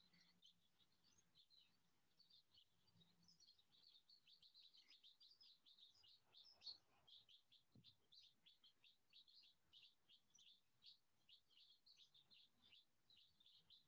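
Near silence, with faint birds chirping: many quick short calls, one after another. One soft tap about seven seconds in.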